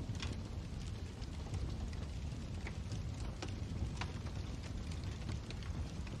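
Wood fire burning in a fireplace: a low, steady rumble of the flames with scattered sharp crackles and pops at irregular moments.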